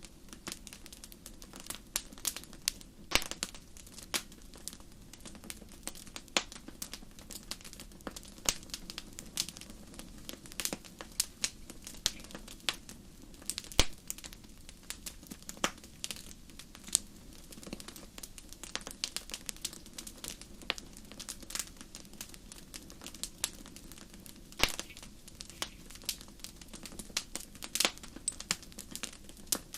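Wood fire crackling in a fireplace: irregular sharp pops and snaps, several a second, over a low steady hiss of the flames.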